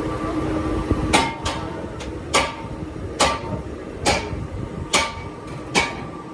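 A hammer striking metal at a steady pace of roughly one blow a second, about seven blows, each leaving a short metallic ring. A steady machine hum runs for about the first second, before the blows begin.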